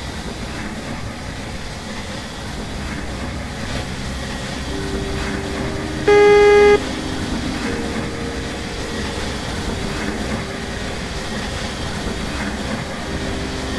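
A train's horn gives one short, loud toot about six seconds in, over a steady rumble of a train.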